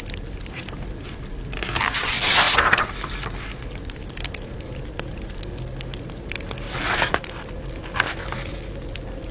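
Campfire crackling, with sharp pops scattered throughout. Two louder rustling swishes stand out, a longer one about two seconds in and a shorter one near seven seconds.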